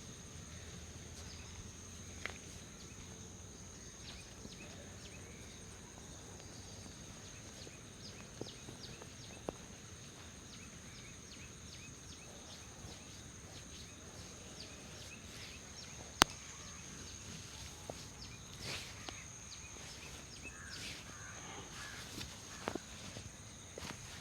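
Quiet outdoor ambience: a steady high insect drone, with scattered small clicks and rustles and one sharp click about two-thirds of the way through.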